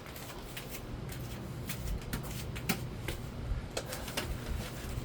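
A 42-inch Nadair spinner ceiling fan running on low speed, a steady low hum with scattered light clicks.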